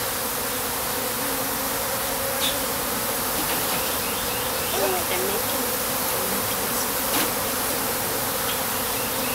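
A honeybee colony buzzing steadily in an open top-bar hive, an even hum with a few faint clicks.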